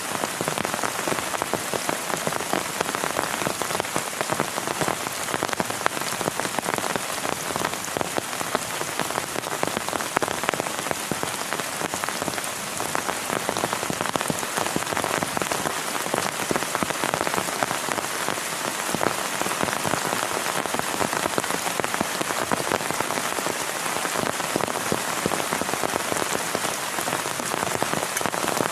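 Heavy rain falling steadily, a dense, even hiss of countless drop impacts.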